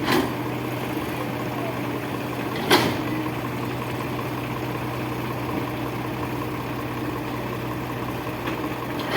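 Heavy diesel engine running steadily at a low idle, with two sharp knocks: one at the start and a louder one a little under three seconds in.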